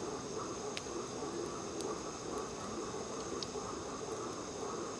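Night-time insects trilling steadily under a chorus of frogs, with a few sharp crackles from a burning campfire.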